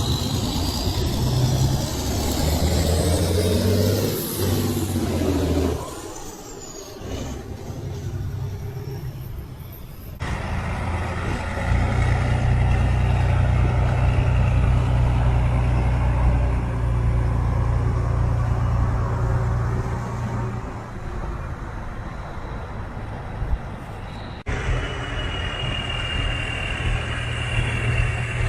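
Heavy truck engines running as vehicles drive past, a steady low rumble that changes abruptly several times, about 6, 10 and 24 seconds in, as one clip cuts to the next.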